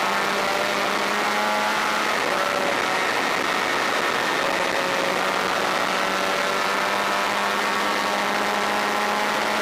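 Racing motorcycle engine, a Honda VFR400 V4, running hard at high revs, heard onboard over heavy wind noise. The engine note holds steady and shifts pitch a couple of times along the way.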